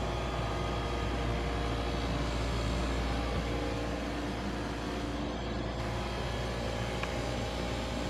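Steady mechanical hum of a running commercial ice machine, with a low hum, several steady tones and an even hiss.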